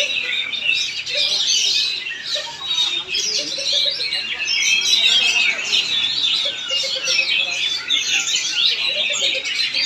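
Oriental magpie-robin (kacer) singing in a fast, unbroken run of varied chirps, trills and short whistles.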